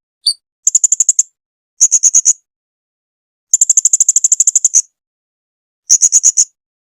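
Blue-crowned hanging parrot (serindit) calling: one short note, then four bursts of rapid, very high-pitched chipping notes, about ten a second. The longest burst lasts over a second. The recording has no background noise.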